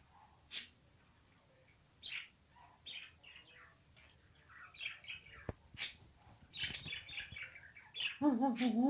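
Pet parrot making scattered short, high chirps with a few sharp clicks, then, about eight seconds in, a much louder warbling call.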